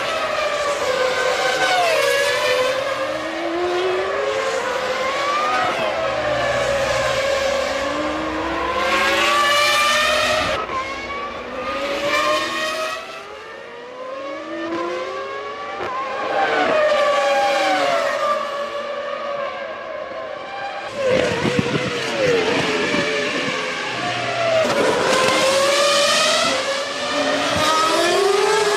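Formula One cars' V10 engines at high revs, accelerating and shifting up through the gears as several cars go by, the pitch climbing and dropping back with each gearchange.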